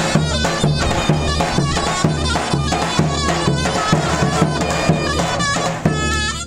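Turkish folk wedding music: a bass drum beating a steady rhythm under a loud, shrill reed wind instrument playing an ornamented melody, cutting off at the very end.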